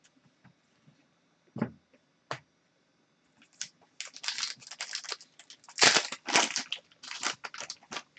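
Trading cards being handled: a couple of light taps, then from about three and a half seconds in a run of scratchy rustling as card stock and wrapper slide and crinkle, loudest near the six-second mark.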